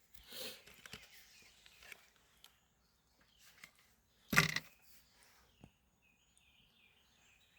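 Quiet outdoor garden ambience with faint bird chirping, a quick run of short high chirps in the second half. About four seconds in, one brief, louder sudden sound cuts in.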